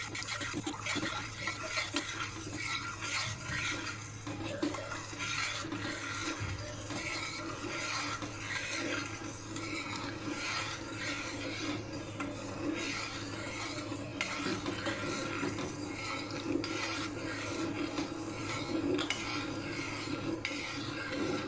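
A spoon stirring and scraping round a pan of cooking mirror-glaze base (sugar syrup with cornflour), in steady repeated strokes, over a faint steady hum.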